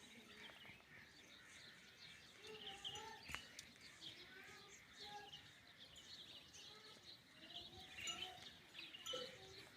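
Faint chirping of several small birds: many short, high calls overlapping, with no steady rhythm.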